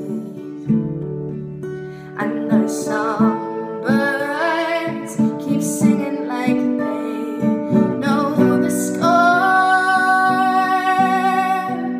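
Acoustic guitar picked steadily under a woman singing. Her voice comes in about two seconds in and holds a long note near the end.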